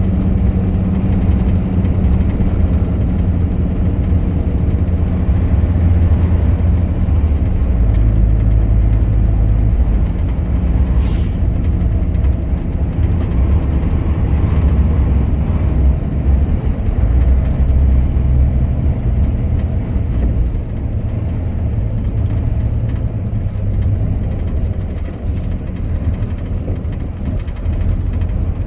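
Truck engine running steadily while driving, a continuous low drone with road noise over it.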